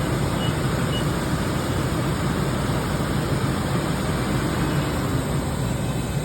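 Steady machine-shop drone of running machinery, a constant low-heavy hum and rush with no change in level. A few short, faint high beeps sound in the first second.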